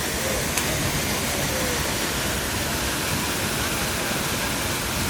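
Steady rushing of a waterfall, an even noise with no rise or fall, with a single brief click about half a second in.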